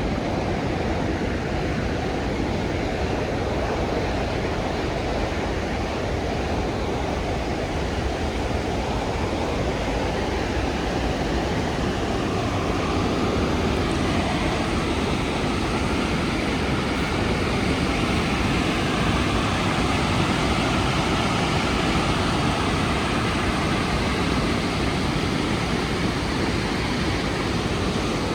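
Rhine Falls waterfall: a loud, steady rush of falling water that swells a little about halfway through.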